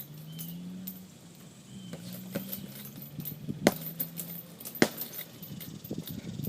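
Boxing gloves hitting a heavy bag: several sharp punches, the two hardest about a second apart near the middle, with light metallic rattling between them.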